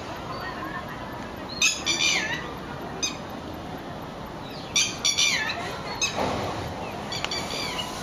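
A bird calling over and over: bursts of short, high, harsh notes, each burst ending in a downward slide, about every three seconds.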